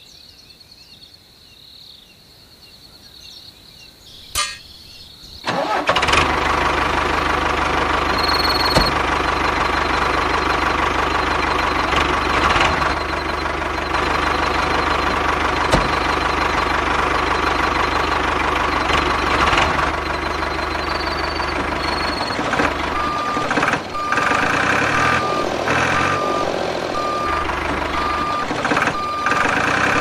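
A tractor engine starts about five seconds in and runs steadily. From about 23 s a reversing alarm beeps about once a second over the engine.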